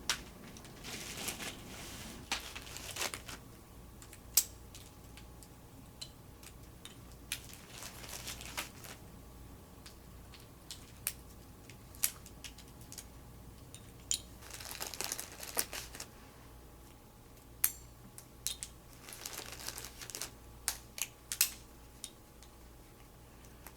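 A parrot chewing a wooden clothespin half: irregular sharp clicks and cracks of wood with short bursts of crunching and splintering.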